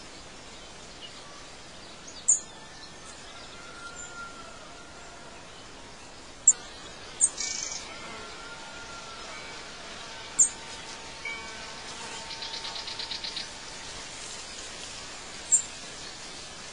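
Birds chirping over a steady faint hiss: short, sharp, high chirps every few seconds and a quick trill about twelve seconds in.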